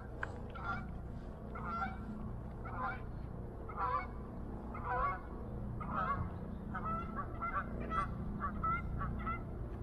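Honking bird calls, repeated about once a second and coming faster and shorter in the last few seconds, over a low steady rumble.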